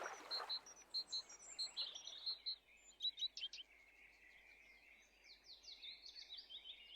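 Birds singing faintly: a repeated pair of short high notes about twice a second for the first two seconds, then a different bird's quick chirping notes over a steady high tone.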